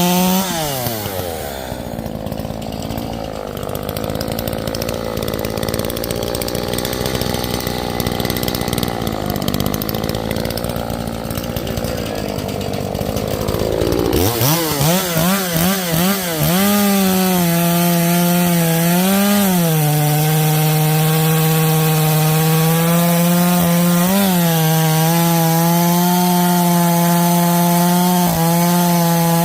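Echo CS-590 Timberwolf two-stroke chainsaw at full throttle. Its pitch drops as it bites into wood and it labours through a cut for about fourteen seconds, then revs back up to a steady high whine once through, with a few brief dips.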